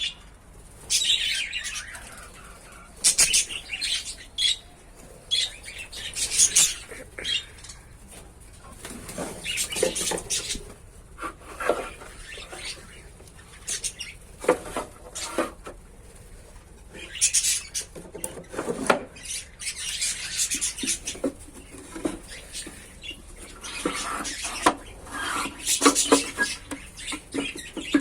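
Lovebirds chirping in short irregular bursts, with bouts of wing flapping and scattered clicks.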